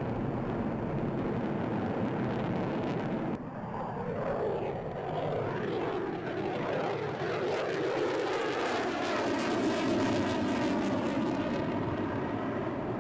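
Jet aircraft engine noise. About three and a half seconds in the sound changes abruptly, and the rest is a jet passing by, its tone sweeping down and then back up.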